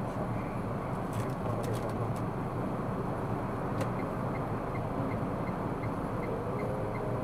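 Car driving, with steady road and engine noise heard inside the cabin. A few sharp clicks come early, then about four seconds in a regular ticking starts at about three ticks a second, the turn-signal indicator.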